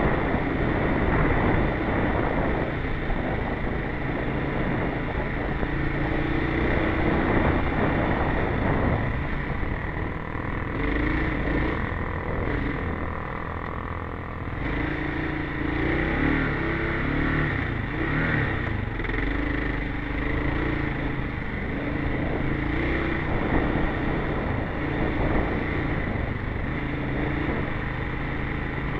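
Kawasaki KLR650's single-cylinder four-stroke engine running continuously as the bike rides along sand, its note rising and falling with the throttle.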